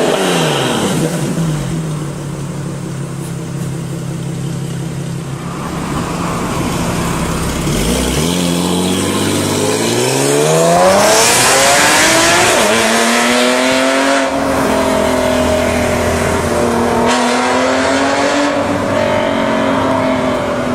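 Porsche 997.2's flat-six engine through an Armytrix valved aftermarket exhaust: the revs drop right at the start, hold steady and low for several seconds, then climb hard under acceleration from about eight seconds in and stay high, rising and falling a little, to the end.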